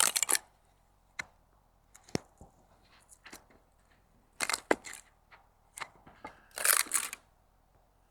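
Grohmann No.3 boat knife cutting into wood: a series of short, irregular cracks and crunches about a second apart, the loudest at the start and near the end.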